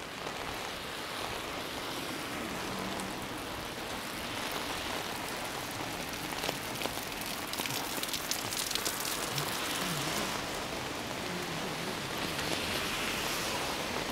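Pretty heavy rain falling steadily, with many single drops ticking close by, thickest about halfway through.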